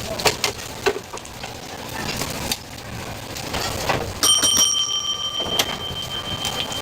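A few light clattering knocks, then about four seconds in a single metal strike that rings on like a bell in several clear tones, the higher ones dying away first.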